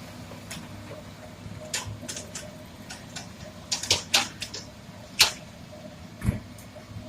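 Hydraulic excavator's diesel running with a steady low hum, under a string of sharp, irregular clacks and knocks of rock as stone is loaded, the loudest about five seconds in.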